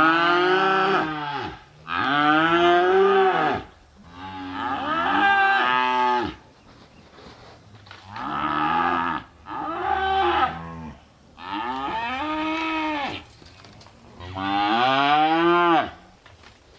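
Newly weaned calves bellowing, about seven long calls one after another with short pauses, each falling in pitch at its end. These are the distress calls of calves just separated from their mothers.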